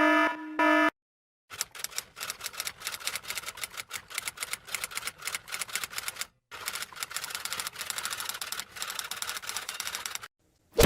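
Rapid clatter of keys being typed, a dense run of sharp clicks for about nine seconds with a brief pause midway. Just before it, a pitched honking tone cuts off, and right at the end comes one loud, short hit.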